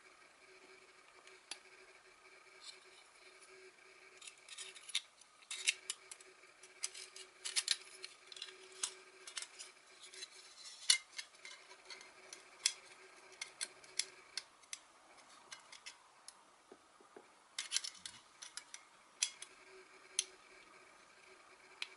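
Irregular light clicks and clinks of small metal parts being handled and knocked together, busiest in the middle and again near the end, over a faint steady hum.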